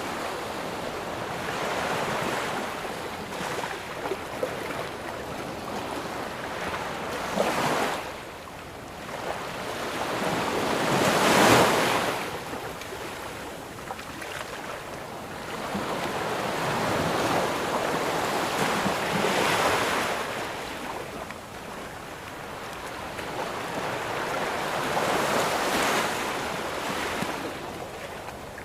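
Surf breaking and washing up a sandy beach, in slow swells about every six to eight seconds, the loudest breaker about eleven seconds in, with some wind on the microphone.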